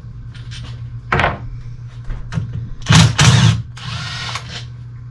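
Tools and metal transmission parts being worked on the bench: a few short knocks and scraping bursts over a steady low hum, the loudest a pair about three seconds in.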